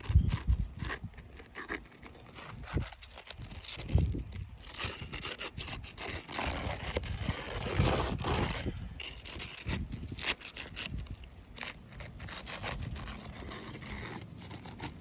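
Flat scraper blade worked under asphalt roof shingles, scraping and crackling as it breaks the tabs' adhesive seal, with repeated short clicks throughout.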